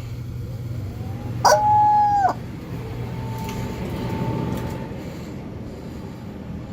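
Rubber chicken squeezed once about a second and a half in: one loud squawk held on a flat pitch for just under a second, starting and stopping sharply. A faint steady tone follows later, over a low steady hum.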